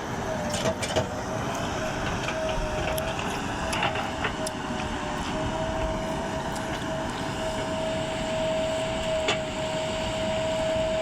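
JCB 3DX backhoe loader working, its diesel engine running steadily with a high whine held through, and a few sharp knocks.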